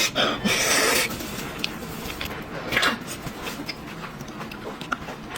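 Close-miked eating of beef bone marrow: a loud hissing slurp or rustle in the first second, then quieter small clicks and mouth sounds, with one short louder burst about three seconds in.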